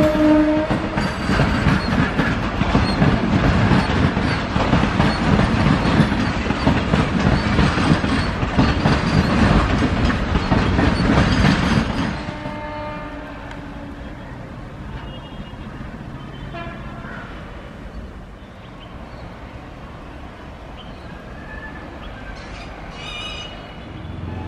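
An Indian Railways electric locomotive's horn sounds a steady note that ends about half a second in. It is followed by a freight train running past close by, a loud continuous rumble and rattle of wagon wheels on the rails. About twelve seconds in this drops sharply to a much quieter rail-station background with a few faint distant tones.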